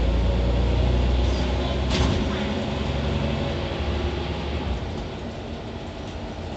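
Scania OmniCity city bus's diesel engine heard from inside the bus, a heavy low drone for the first two seconds. A short knock comes about two seconds in, then the engine eases off and the sound grows quieter toward the end.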